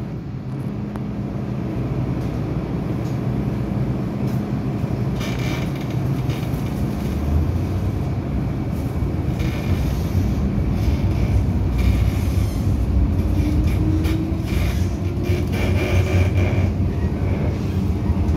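MTR Island Line M-Train running on the line: a steady rumble of wheels and motors that grows louder through the first half, with a faint whine rising in pitch in the second half.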